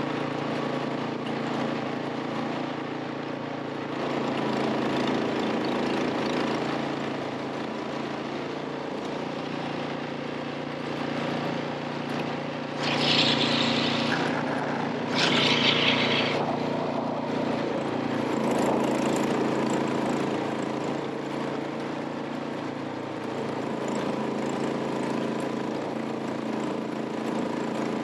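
Vehicle engine running steadily. Two short bursts of hissing noise, each about a second long, come about halfway through and are the loudest moments.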